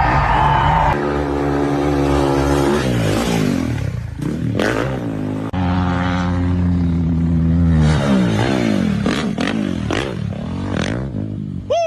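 Dirt bike engine running, held at steady revs for a couple of seconds at a time and revved up and down several times in between.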